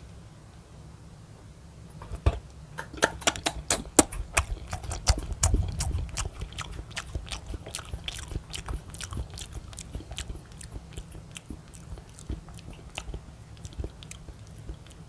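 Close-miked chewing of a grape-shaped gummy jelly: a dense run of wet clicks and squelches starts about two seconds in and thins to sparser smacks after about ten seconds.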